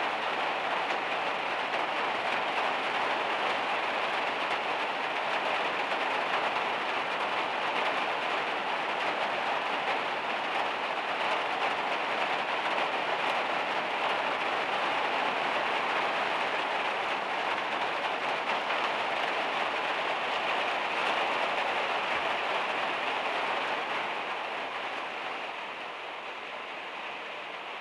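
Heavy rain hitting a van's metal roof: a dense, steady patter of drops that eases slightly near the end.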